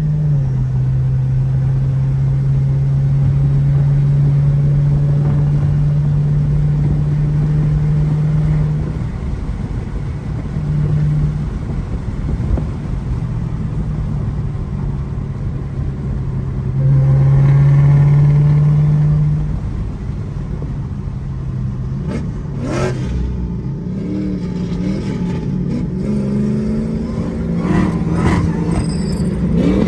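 Car engines running during a roll race: a steady engine drone that holds for several seconds, drops away and comes back, then revs rise again near the end.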